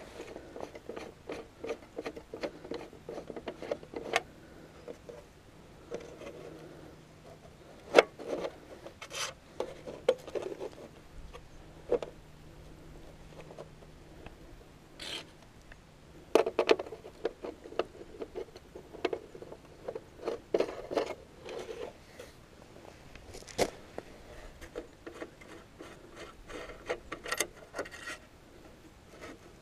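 Hand relining of a small-gauge three-way frogless track switch: scraping, rubbing and scattered clicks and knocks of metal parts as the locking plug is unscrewed, the switch rails are shifted and the knob is screwed back into its threaded bushing. A few sharper knocks stand out, the loudest about eight seconds in.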